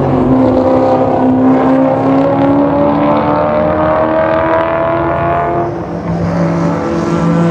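Historic racing car engine accelerating hard, its pitch climbing steadily, then dropping suddenly on an upshift about six seconds in before it pulls again.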